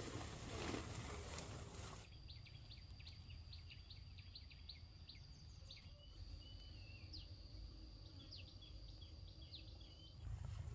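Faint outdoor ambience: after about two seconds of even background noise, a steady high insect drone with many short bird chirps scattered over it, until the noisier background returns near the end.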